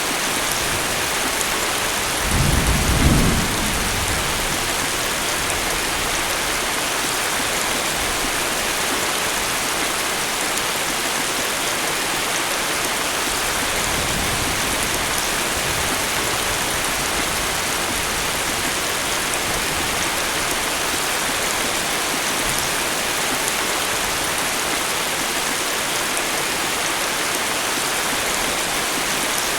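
Heavy, steady rain falling in a tropical thunderstorm, with a rumble of thunder about two seconds in and a fainter rumble about halfway through.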